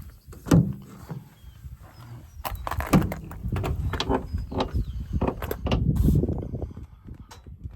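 An irregular series of knocks and clatters from the service truck's toolbox compartment doors and drawer set being handled, the sharpest knocks about half a second and three seconds in.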